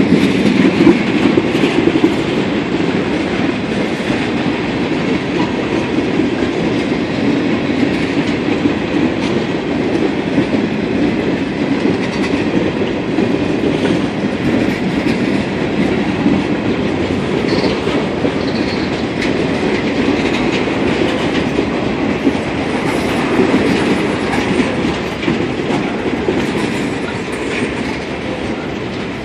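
Norfolk Southern mixed freight train of autoracks, tank cars and boxcars rolling past at close range. Its steel wheels give a steady rumble and clickety-clack over the rail joints.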